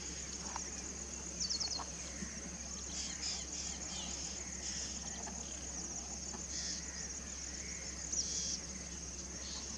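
Short, high chirps from a small bird, heard several times, over a steady high-pitched insect trill.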